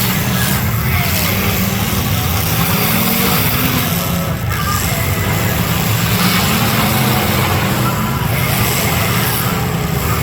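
Demolition derby cars' engines running loud and continuous, their pitch rising and falling as the drivers rev.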